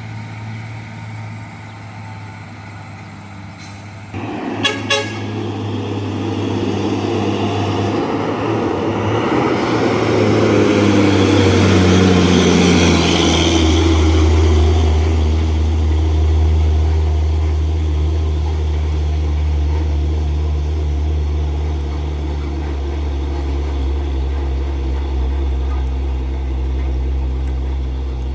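Diesel dump truck approaching and passing through a bend, its engine swelling to loudest midway and dropping in pitch, then settling into a steady low rumble. A brief rapid series of sharp clicks comes about five seconds in.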